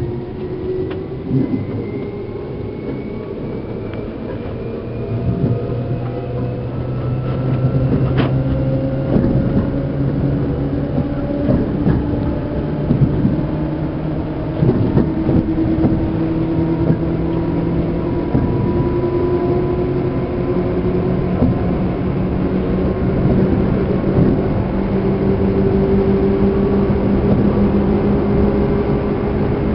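Running sound inside a Seibu New 2000 series electric motor car. The traction motor and gear whine rises slowly and steadily in pitch as the train gathers speed, over rumbling wheel and rail noise with scattered knocks from the track.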